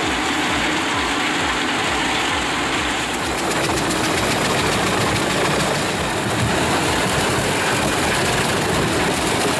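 Pezzolato PTH 1400/1100 Allroad self-propelled wood chipper running with its Volvo engine, a loud, steady mechanical din with a low repeating throb underneath.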